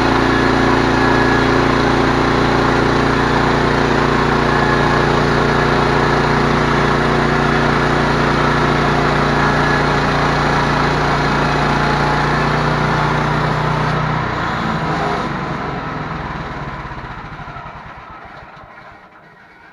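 Engine running steadily at idle, then shut off about 14 seconds in, dying away over the next few seconds.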